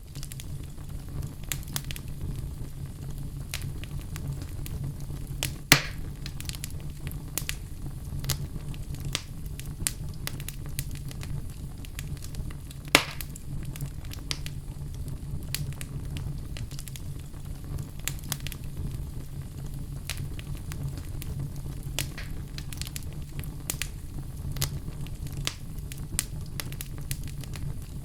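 Crackling fire sound effect: a steady low rumble of flames with frequent small crackles, and two louder pops about six and thirteen seconds in.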